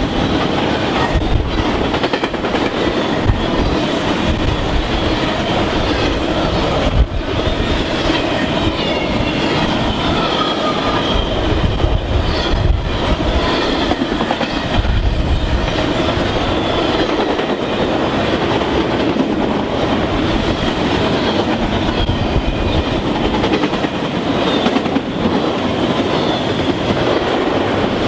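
CSX intermodal freight train's cars rolling past: a steady rumble with wheels clacking over the rail joints and thin, wavering wheel squeals that come and go.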